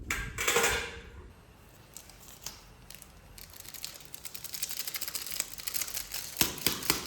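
Crinkling and rustling with quick light clicks and taps as a food packet and small camp cooking pots are handled. The clicks grow denser toward the end, with a couple of louder knocks near the end.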